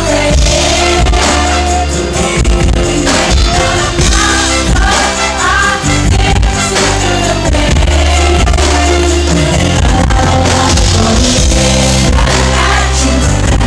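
Live concert performance, loud: a band with heavy bass playing while a singer sings the melody.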